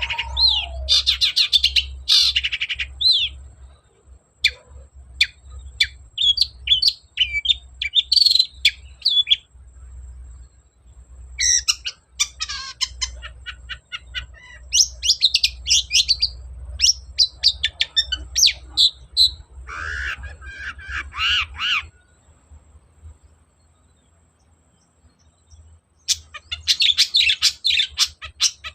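Long-tailed shrike singing in rapid bursts of quick, high chattering and squeaky notes. The singing pauses for a few seconds near the end, then a last burst follows. A low steady hum lies under the first part.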